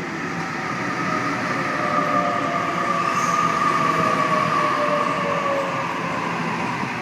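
Waratah electric passenger train at the platform, its electric whine slowly falling in pitch over a steady rumble, swelling to its loudest about halfway through and then easing.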